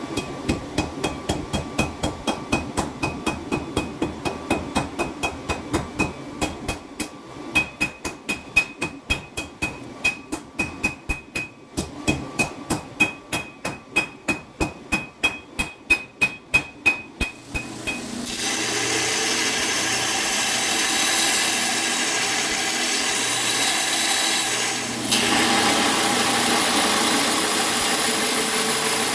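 Hammer blows on hot 5160 leaf-spring steel over an anvil, evenly repeated at about two to three strikes a second, each with a short ringing note. About eighteen seconds in the hammering stops and a steady, loud machine noise takes over.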